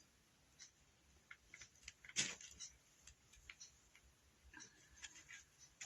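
Faint scattered clicks and light rustles of hands handling craft materials, with a slightly louder click a little over two seconds in.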